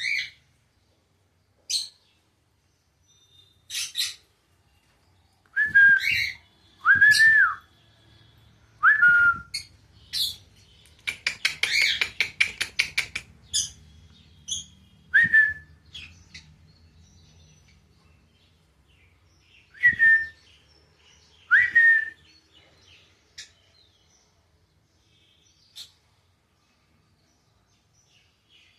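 Pet lovebirds calling with short, sharp, shrill chirps at irregular intervals, several of them rising briefly then falling in pitch. Near the middle there is a rapid stuttering run of chatter lasting about two seconds.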